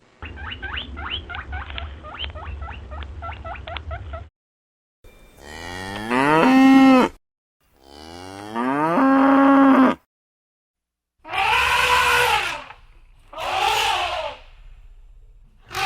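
Cattle mooing: two long, loud moos, each sliding up in pitch and then holding a steady low tone, with a short gap between them. Before them, for about four seconds, comes a rapid pulsed animal call. Near the end come two shorter calls that rise and fall in pitch.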